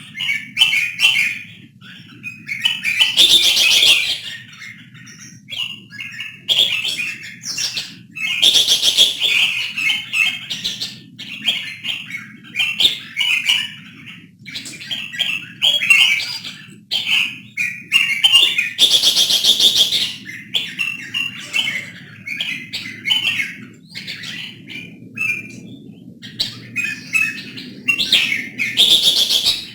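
Red-whiskered bulbuls singing in short, bright chirping phrases, over and over, with four longer, harsher bursts of call spread through the stretch.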